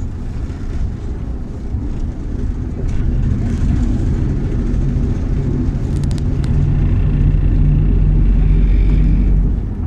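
MAZ-103 city bus driving, its diesel engine and running gear heard from inside the cabin as a steady low rumble with a hum. It grows louder about three seconds in, with a few rattling clicks near the middle, and eases off just before the end.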